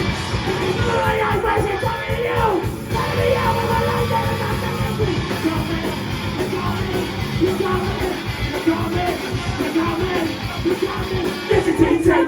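Live loud rock band playing, with drums and shouted vocals over the instruments.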